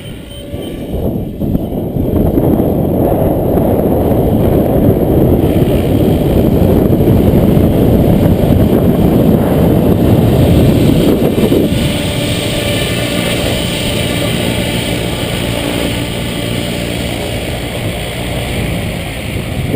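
Gusty wind buffeting the microphone with a heavy low rumble, which eases about twelve seconds in. Under it is the steady hum of an electric RC aircraft's motor and propeller in flight.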